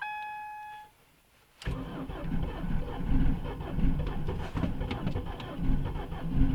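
A short electronic beep, then about a second and a half in the starter motor begins cranking the car's engine, a heavy, uneven churning. The engine is cold-soaked from a −22 °C frost and turns over with difficulty, everything frozen.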